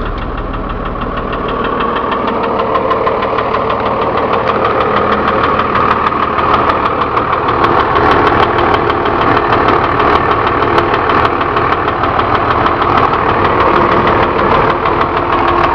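Cummins diesel engine of a step van idling just after start-up, with a steady, fast knocking over the idle. This is the motor noise the owner suspects is tied to its low oil pressure.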